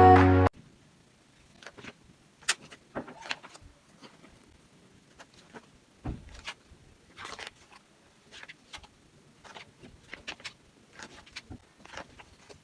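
Scattered light clicks, taps and knocks of kitchen utensils and containers being handled, spaced irregularly with quiet between them. A song cuts off about half a second in.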